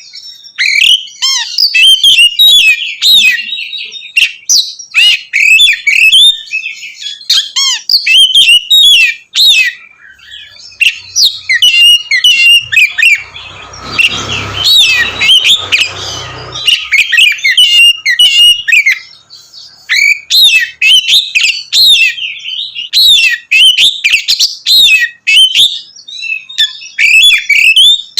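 Oriental magpie-robin singing loudly and continuously in rapid, varied phrases of high whistles and chirps. About halfway through, a low rumbling noise runs under the song for some three seconds.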